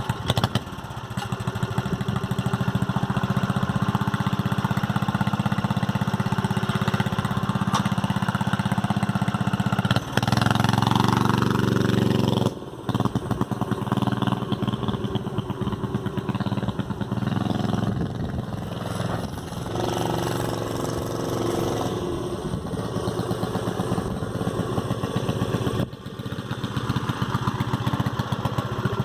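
Minibike's Tecumseh HS40 small single-cylinder four-stroke engine catching suddenly and running with a steady chugging note. About ten seconds in it revs up in a rising whine, then drops off abruptly, and the engine speed rises and falls as the bike is ridden.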